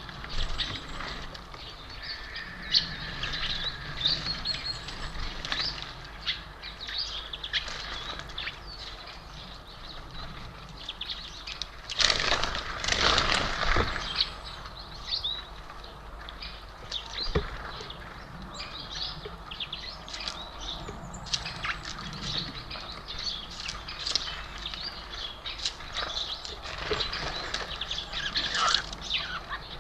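Small birds at a feeder chirping and calling in many short, high notes. There is a louder rustling flurry about twelve seconds in, typical of wings flapping as birds come and go.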